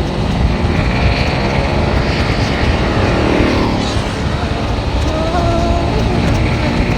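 Steady road and engine noise of a car on the move, a continuous low rumble and hiss, with a louder swell rising and falling about three seconds in.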